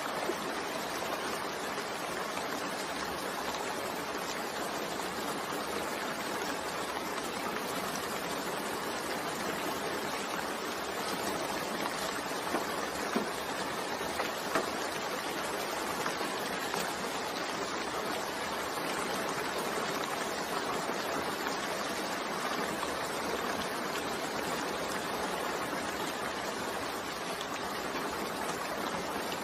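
Steady rain falling, a continuous even hiss with a few faint drop ticks about halfway through.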